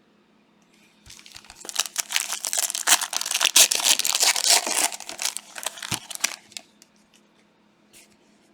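A trading card pack's plastic wrapper being torn open and crinkled, a dense run of crackling that starts about a second in and stops after about five seconds.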